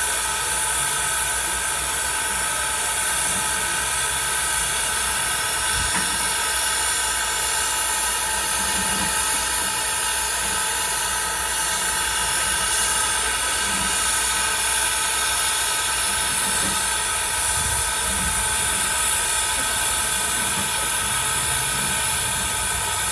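Steam locomotive hissing steadily, with a single faint click about six seconds in.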